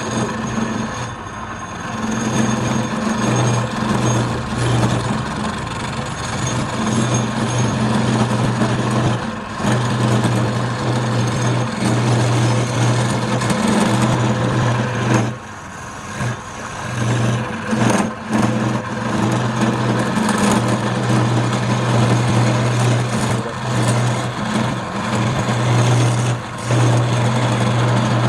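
Wood lathe running: a steady low hum under a rough hiss that dips and breaks off briefly a few times, about ten seconds in and again around the middle.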